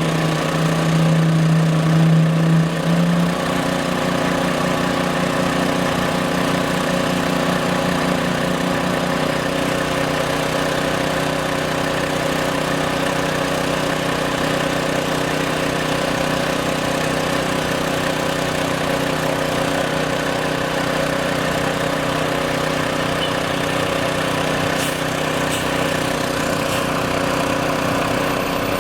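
An engine running steadily at a constant speed, with a loud low hum that drops away about three seconds in.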